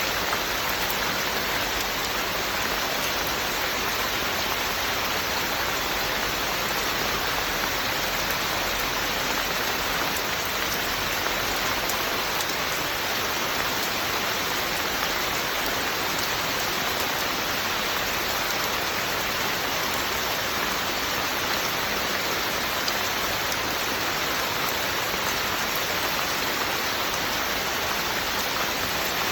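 Steady rain falling, an even hiss of rain on surfaces with no breaks or changes.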